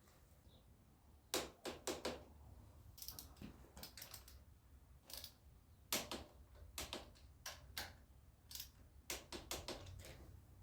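Irregular light clicks and knocks, several in quick runs with short gaps between, as of metal tools and parts being handled.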